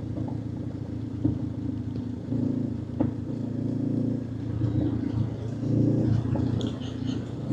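Motorcycle engine running under way through a bend, its note easing and picking up a little as the throttle changes.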